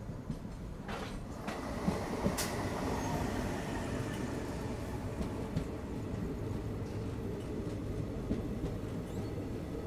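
Train running on the rails, heard from aboard a moving coach: a steady rumble with a few sharp clicks in the first couple of seconds. It gets louder about a second and a half in, and a faint thin whine runs on from there.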